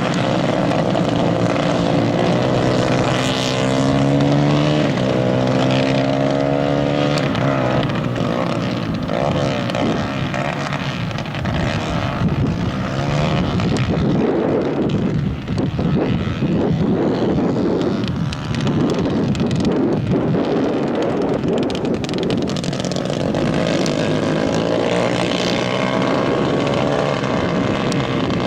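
Several 150cc racing kart engines running hard during a race, one note climbing in pitch as a kart accelerates a few seconds in, then a dense, steady engine buzz.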